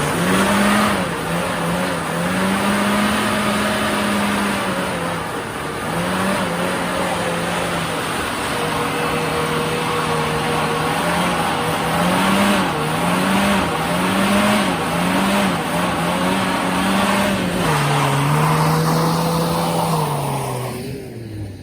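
Japanese mini truck's small engine held at high revs in a burnout with the throttle floored, the rear tires spinning together on the welded differential. The revs waver up and down several times in the middle, then drop off near the end.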